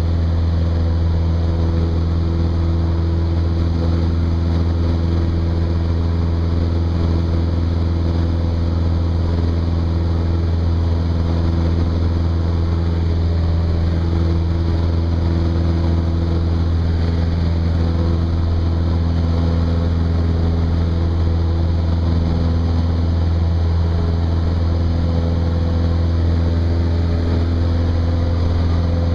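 Cessna 172's piston engine and propeller droning steadily at constant power, with a strong low hum and no rise or fall in pitch.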